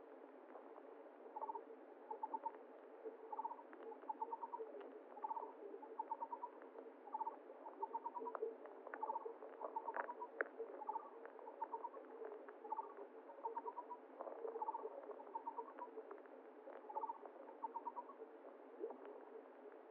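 Flowing water with a small animal calling over it: short trills of three or four rapid pulses, repeated about once a second, with scattered sharp clicks.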